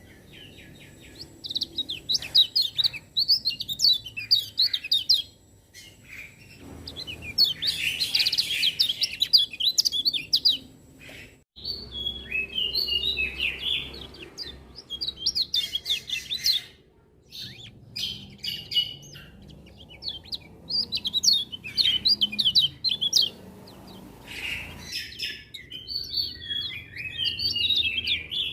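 Kecial kuning white-eye singing, a fast, high twittering song in phrases a few seconds long with short pauses between them.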